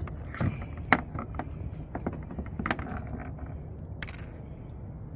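Scattered clicks, light knocks and rattles of handling on a boat, with a sharp click about a second in, over a steady low rumble.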